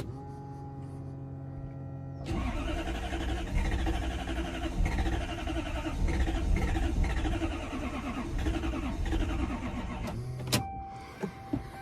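Toyota 1UZ-FE V8 cranking on its starter for about eight seconds without firing, after a steady hum in the first couple of seconds. The cranking stops abruptly about ten seconds in. It is a crank-but-no-start that the owner traces to no spark.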